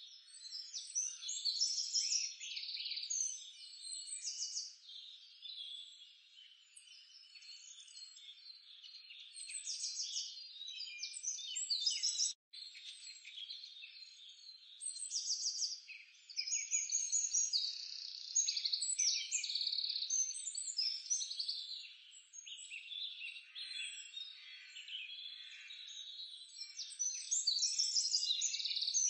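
A chorus of small birds chirping and trilling, many short high calls overlapping, with a brief cut-out about twelve seconds in.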